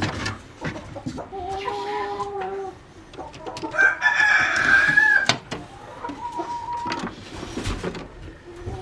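Chickens calling, with a rooster crowing about four seconds in, the longest and loudest call.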